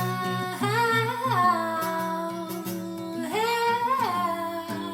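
Singer humming a wordless melody with long held notes that slide down in pitch, over a strummed and plucked guitar accompaniment.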